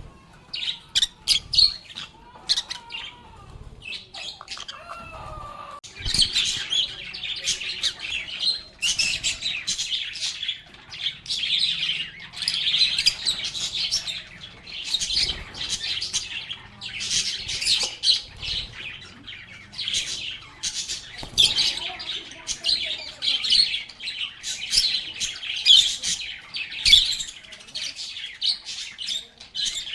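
A flock of lovebirds chirping and chattering: a busy stream of short, high chirps, sparse at first and becoming dense and continuous about six seconds in.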